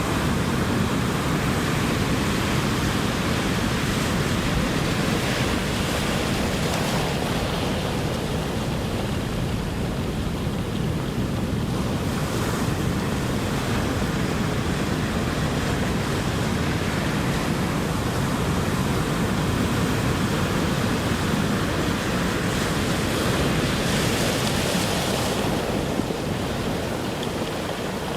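Ocean surf: waves breaking and washing ashore in a steady rush of noise, the hiss swelling a few times as waves wash in, most clearly near the end.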